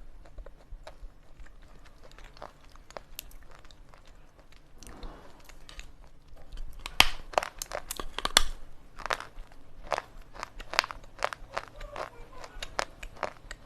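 Slate pencils being bitten and crunched between the teeth. A few faint crackles come first, then from about halfway through a quick run of sharp, loud crunches.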